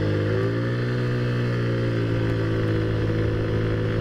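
Taotao Zummer scooter's small single-cylinder four-stroke engine pulling away from a stop. Its pitch climbs for about the first second, then holds steady under throttle.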